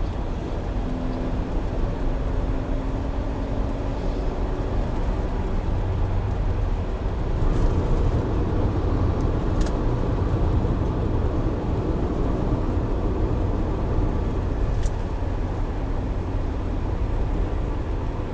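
Steady engine and road noise of a moving car, heard from inside the cabin through a dashcam microphone, with two short clicks about ten and fifteen seconds in.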